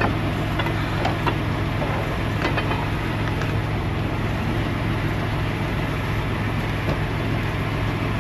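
Diesel truck engine idling steadily, a low even hum, with a few light metallic clicks of hand tools in the first few seconds.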